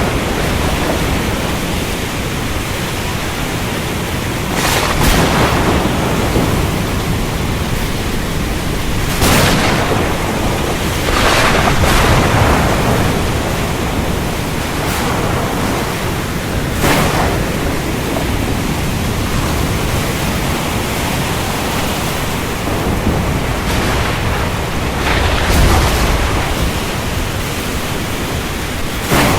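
Steady rain of a thunderstorm, with thunder cracking about six times at irregular intervals; the last clap, near the end, swells into a deeper rumble.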